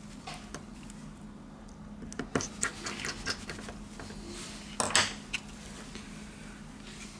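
Small clicks, taps and scrapes of a smartphone's parts and small repair tools being handled during reassembly. They come in a cluster from about two seconds in, loudest near five seconds, over a steady low hum.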